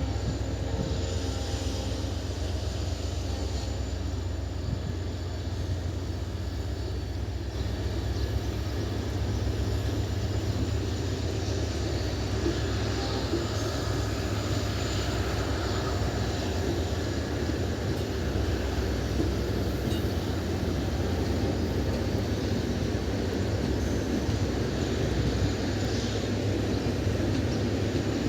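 A train running with a steady low rumble and drone.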